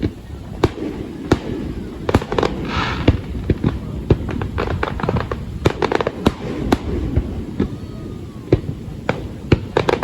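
Fireworks bursting overhead: irregular sharp bangs, some in quick clusters, with a short hissing crackle about three seconds in.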